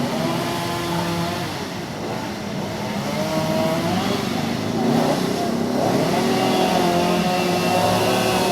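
Road traffic: several motor vehicle engines running and passing at once, their pitches slowly rising and falling.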